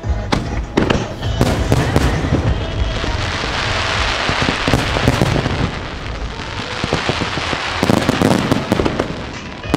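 Fireworks display: a rapid series of shell bursts and bangs, with a dense hissing, crackling spell in the middle few seconds and another cluster of bangs near the end.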